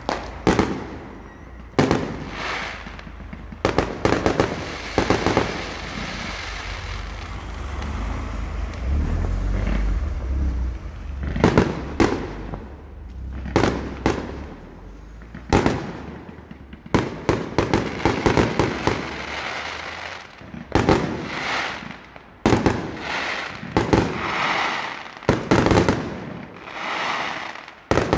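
Fireworks going off: repeated sharp bangs and crackling. There is a stretch of continuous crackle and rumble near the start, and quick volleys of bangs later on.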